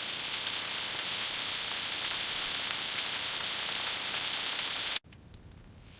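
Steady crackling hiss that cuts off suddenly about five seconds in.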